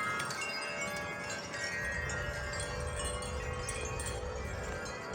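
Several wind chimes ringing in a light gust, many notes overlapping and ringing on. A low rumble sets in about two seconds in.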